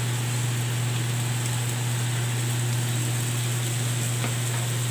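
Chicken and vegetables sizzling in an aluminium wok over a gas burner: a steady frying hiss over a constant low hum.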